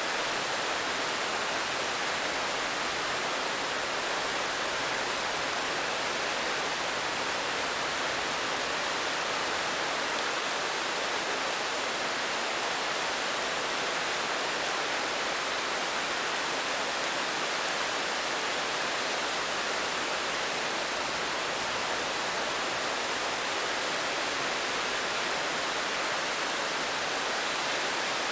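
Steady rain, an even hiss with no separate drops, thunder or pauses standing out.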